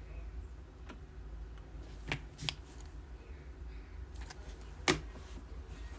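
Trading cards being handled between calls, with a few short, sharp snaps and flicks, the sharpest about five seconds in, over a low steady hum.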